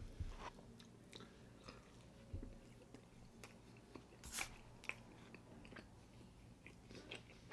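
A person chewing soft food close to the microphone, with faint wet mouth sounds and scattered small clicks.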